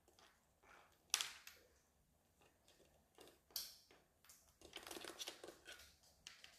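Faint, scattered scratches and clicks from cockatiels moving about, with a sharp click about a second in and a quick run of scratching around five seconds in.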